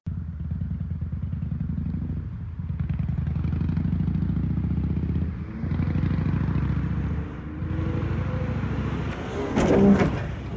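Car engine running steadily, dropping off and picking up again a few times, with a louder rattling burst near the end.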